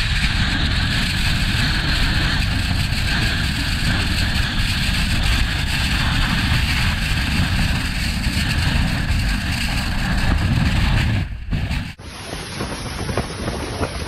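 Storm wind blowing hard and steadily against the microphone, a deep rumble under a loud rushing hiss. About twelve seconds in it cuts abruptly to a thinner recording of wind with scattered sharp knocks or splashes.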